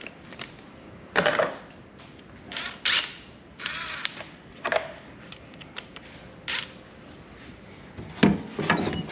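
Scattered handling noises of disassembly on a Ryobi table saw: short scrapes, creaks and clicks of a screwdriver and metal parts, about eight separate noises a second or so apart.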